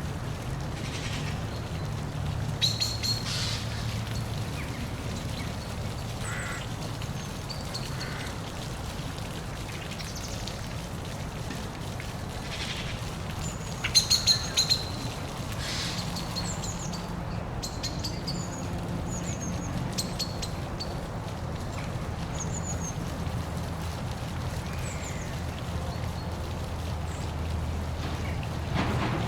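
Steady rush of a park waterfall with birds chirping and calling over it; about halfway a quick cluster of short, loud calls stands out.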